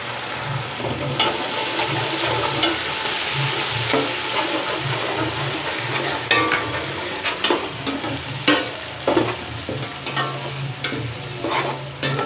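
Ginger-garlic paste and browned onions sizzling in hot oil in a large metal pot, stirred with a spoon that scrapes and clicks against the pot. The clicks come more often in the second half.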